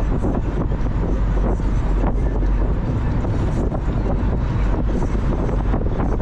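Heavy wind buffeting on the microphone over the steady road and engine rumble of a Mazda Miata being driven.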